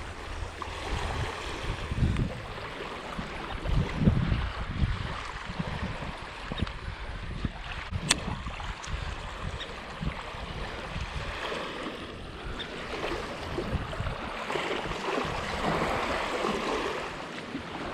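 Wind gusting across the microphone in irregular low rumbles, the strongest about two and four seconds in, over a steady wash of lake water lapping at the shore. A single sharp click comes about eight seconds in.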